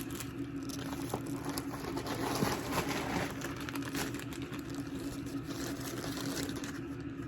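Plastic packaging rustling and crinkling with small clicks as items are handled and unwrapped, over a steady low hum.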